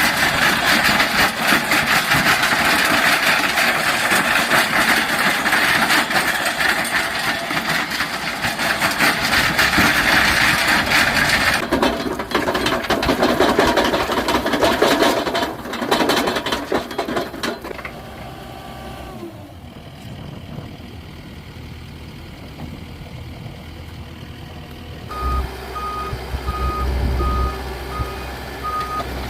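Skid steer with a landscape rake attachment working, its engine running with loud, dense machine noise that changes abruptly several times. Near the end a reversing alarm beeps steadily over a low engine rumble.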